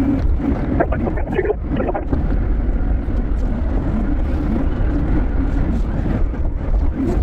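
Forklift driving: a steady low rumble with rattling, and a few sharp knocks in the first two seconds.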